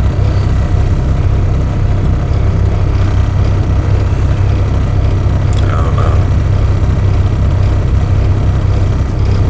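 Steady low hum of a car heard from inside the cabin while it idles or creeps in stop-and-go traffic. A brief short squeak is heard about halfway through.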